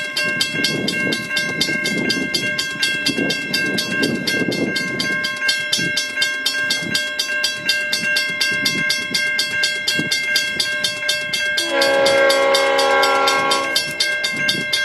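Western Cullen Hayes mechanical level-crossing bell ringing with rapid, even strokes throughout, over the rumbling whirr of an approaching diesel train. About twelve seconds in, the locomotive sounds its horn in one blast of about two seconds, the loudest sound here.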